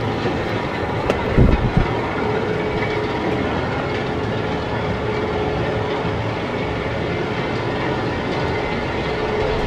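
Inverted roller coaster train rattling and clattering along its steel track, heard from the front row, with a few heavy thumps a little over a second in and a steady hum from about two seconds in.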